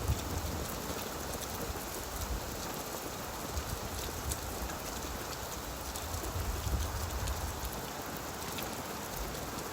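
Steady gentle rain falling on leaves, a continuous patter of many small drops.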